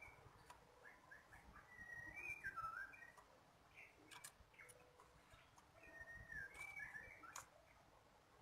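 Faint chirps and short whistled notes of small songbirds, ciblek kristal prinias, in two brief flurries, with a few sharp clicks between them.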